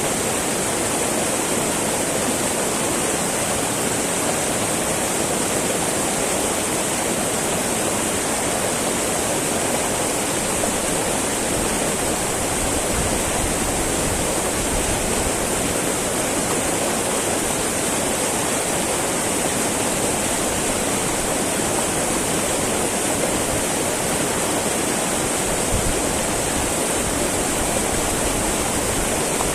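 Small mountain river babbling and rushing over rocks, a steady, even water noise.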